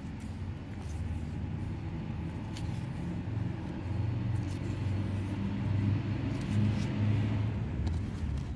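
Low rumble of a motor vehicle's engine running nearby, growing gradually louder, with a faint rustle of book pages being turned.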